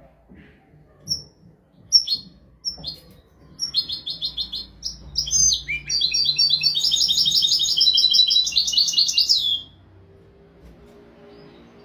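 European goldfinch singing: a few separate high chirps, then a fast, continuous run of twittering and trilled notes lasting about six seconds that stops abruptly about two seconds before the end.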